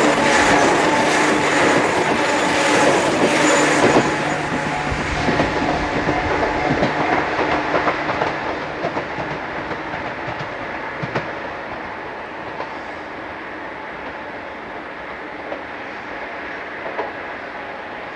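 Train passing over a level crossing, its wheels clacking on the rail joints. It is loud for the first few seconds, drops sharply about four seconds in, then fades away steadily as the train moves off.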